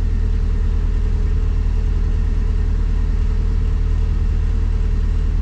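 A motor cruiser's inboard engine running steadily under way, a low, even throb with a rapid fine pulse.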